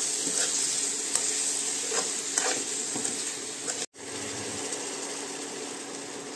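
Chicken pieces sizzling in oil and masala gravy in a karahi, with a metal spoon stirring and scraping the pan a few times. The sound drops out for an instant about four seconds in, then the sizzling goes on steadily.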